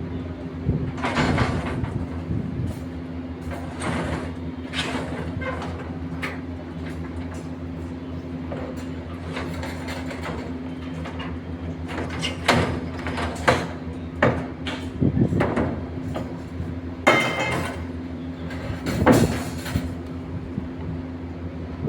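A machine's engine running with a steady drone on a construction site, with intermittent scraping and knocking of tools or materials, several clusters of which come around the middle and near the end.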